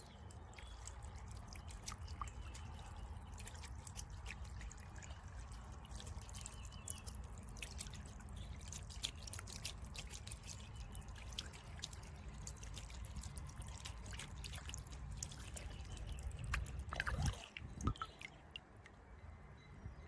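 Water from a small solar bird-bath fountain spraying and splashing into the basin, with irregular dripping and trickling. A few louder knocks come about three-quarters of the way through.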